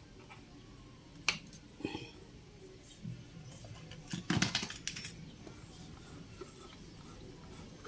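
A few sharp metal clicks and clinks, then a short burst of clattering about four seconds in, from tools and small metal parts being handled on a sewing machine under repair.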